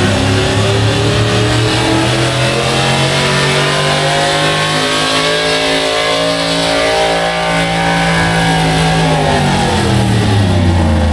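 Small-block gas V8 in a pulling truck running at high revs under full load, pitch slowly climbing, then dropping off near the end as the sled's weight brings the truck down.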